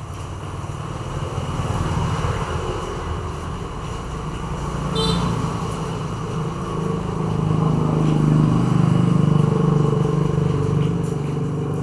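A motor vehicle engine running, growing louder in the second half.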